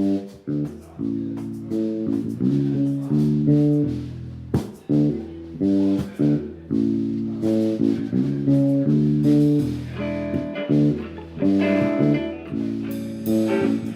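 Live band playing a song, with guitar and bass guitar carrying the chords and bass line. A brighter, higher part joins in about ten seconds in.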